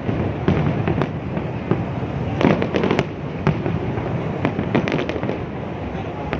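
Aerial fireworks display: continuous rumbling bangs with many sharp crackling reports, which come in dense clusters about two and a half seconds in and again around five seconds in.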